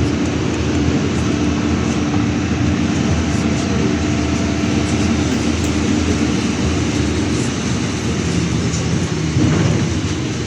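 Steady engine and road noise inside a moving city bus, with a held drone running under it.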